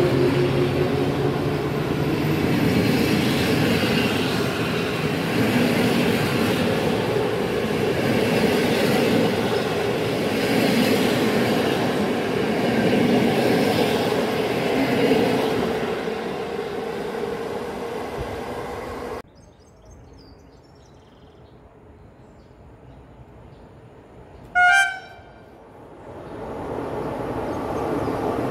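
Electric passenger train, an EP07 locomotive hauling TLK coaches, passing close at speed with a steady rumble of wheels on rail. After a break there is one short horn blast from an approaching class 201Eo (ET22) electric freight locomotive, followed by the rising rumble of it drawing near.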